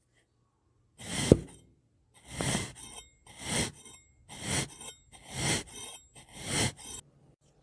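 Something crunchy being crushed in six separate crunches, roughly one a second, the first with a sharp crack.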